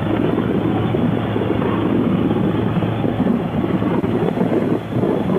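Motorcycle engine running steadily under way, with road and wind noise on the rider's microphone.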